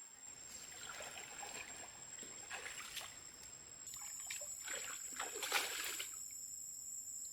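Water splashing and trickling in two stretches of bursts, the second, about four seconds in, the louder.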